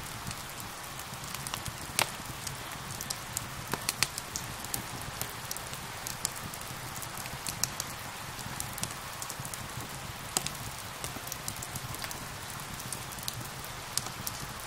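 Steady rain hiss mixed with a wood fire crackling, with sharp pops scattered through and a few louder ones about two, four and ten seconds in.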